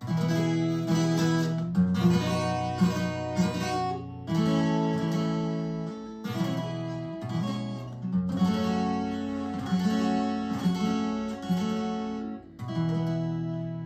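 Acoustic guitar strumming sustained chords, the chord changing every two seconds or so: the instrumental introduction to a song.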